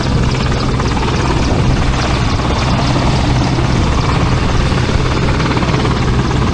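Small boat's engine running steadily with a constant low hum, mixed with a rush of wind and water noise.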